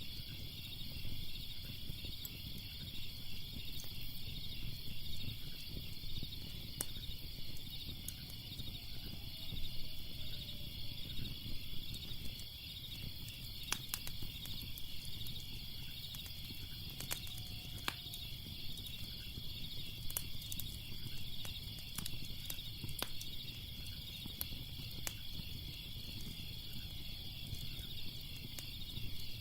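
Wood fire crackling with scattered sharp pops, over a steady chorus of crickets chirping and a low steady rumble.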